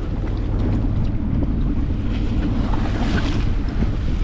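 A sailboat's inboard engine running steadily under way, with water washing along the hull and wind on the microphone. A louder rush of water about two seconds in.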